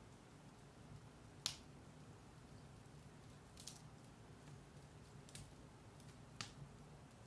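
Firewood burning in a fireplace: a faint, steady low rustle of the fire with a few sharp crackles and pops, the loudest about one and a half seconds in.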